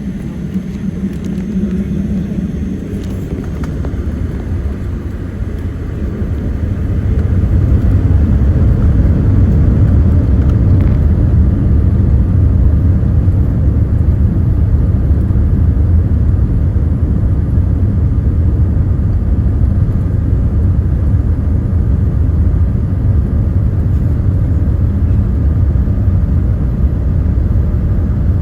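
Jet airliner cabin noise during takeoff, heard from inside a Boeing 787-8: the engines spool up and the roar and low rumble grow louder over the first several seconds, then hold as a steady heavy rumble.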